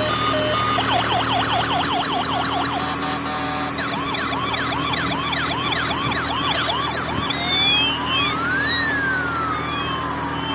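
Electronic siren: a fast yelp of rising and falling sweeps, about four a second, changing near the end to a slower wail whose tones rise and fall across each other, over a steady hum.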